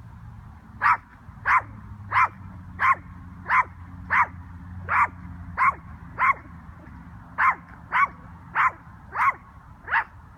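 Yorkshire terrier barking: fourteen short, sharp barks at a steady pace of about one and a half a second, with a brief pause a little past the middle.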